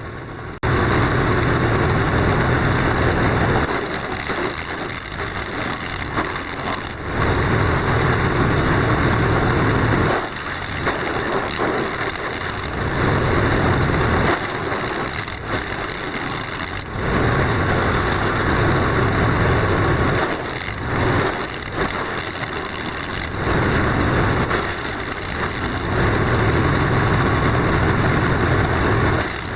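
Compact 15-horsepower engine-driven garden wood chipper running, its sound swelling and easing every few seconds as it works.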